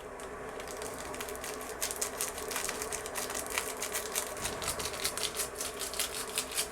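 Foil ramen flavor packet crinkling as it is torn open and shaken out. It makes a quick, irregular run of light ticks and rustles that starts about two seconds in.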